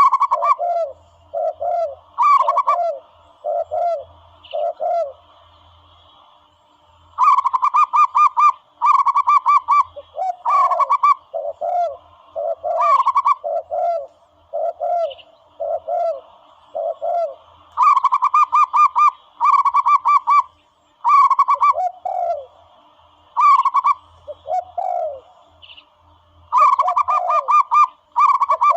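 Recorded dove calls from a bird-hunting sound caller: phrases of quick, repeated cooing notes. A fast run of higher notes is followed by spaced lower notes, and the phrases repeat over and over with short pauses between them.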